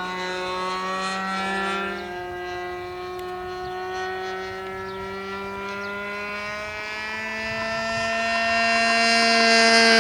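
RC model aircraft's piston engine running steadily at high throttle, a continuous buzzing engine note. It grows louder and climbs a little in pitch over the last few seconds.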